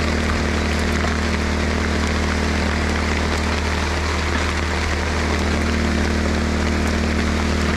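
Rain falling steadily on a tarp over a tent, with the low hum of a running portable generator underneath.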